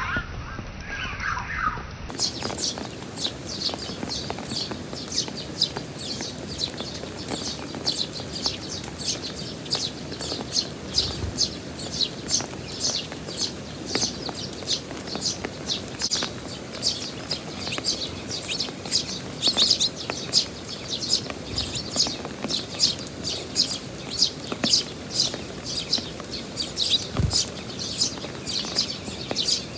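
Tree sparrows chirping in quick, steady succession over the hiss of heavy rain. A short stretch of music ends about two seconds in.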